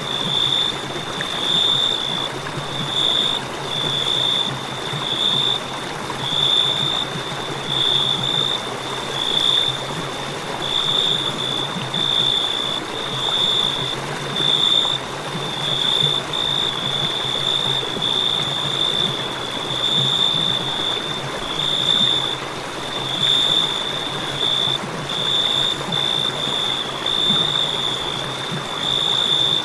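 Crickets chirping in a continuous high, pulsing trill, the chirps coming in quick runs with brief gaps. Behind them is a steady rushing hiss, like flowing water.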